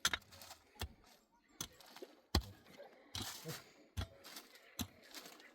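A sharp knock or click repeated at a steady rhythm, about one every 0.8 seconds, eight times.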